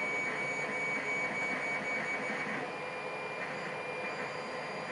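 Steady background hiss with a faint high whine, a constant room or equipment noise with no distinct handling sounds.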